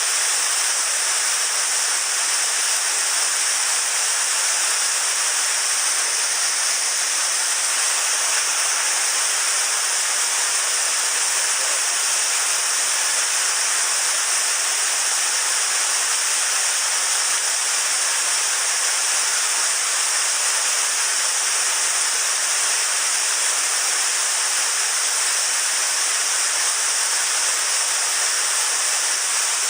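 Rushing water of a mountain headwater stream, a steady, unbroken hiss.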